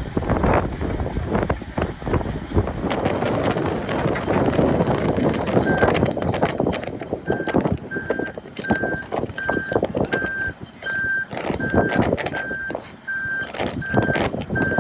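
Heavy equipment's backup alarm, starting about six seconds in and beeping at one steady pitch, roughly three beeps every two seconds. Strong wind buffets the microphone throughout with irregular knocks and rumble.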